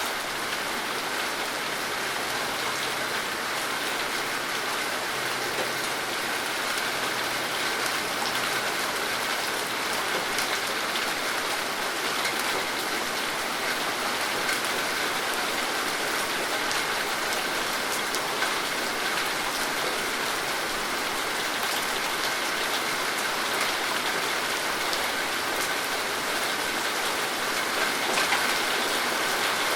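Steady rain falling on a surface, a continuous even hiss with many small drop patters.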